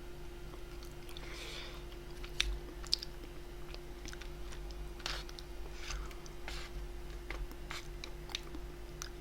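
Close-miked chewing and mouth sounds of someone eating grilled bulgogi, with scattered wet clicks and smacks, the sharpest two about two and a half and three seconds in. A faint steady electrical hum runs underneath.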